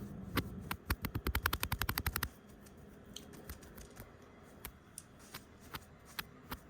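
Fingers tapping on or near the camera lens close to the microphone. A fast run of about ten crisp taps a second lasts about a second and a half, then slower single taps follow.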